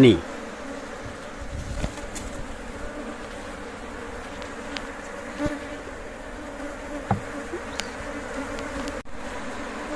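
A colony of honeybees buzzing in a steady hum around an open hive, with a few faint clicks over it.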